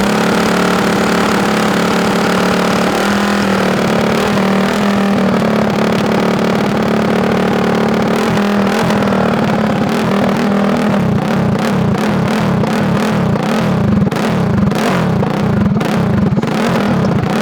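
Honda CRF450 single-cylinder four-stroke engine running steadily, then from about two-thirds of the way through revved up and down over and over in quick succession.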